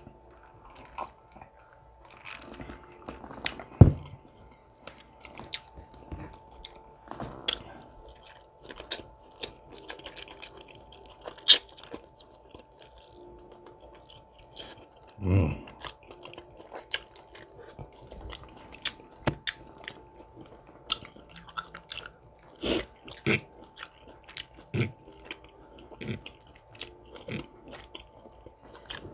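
Close-miked mouth sounds of a person eating braised short rib and spaghetti: wet chewing, lip smacks and sharp mouth clicks coming in an uneven scatter, the loudest about four seconds in. A faint steady tone runs underneath.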